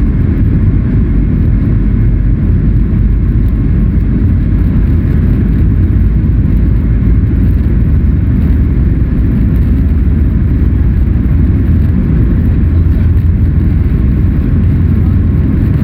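Steady, loud low rumble of a Boeing 737 MAX 8 heard from inside the passenger cabin: engine and airflow noise, even throughout with no rise or fall.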